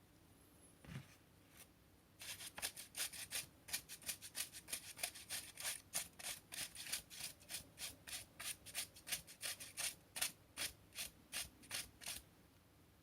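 Quick repeated rubbing strokes, about three a second, starting about two seconds in and stopping about a second before the end.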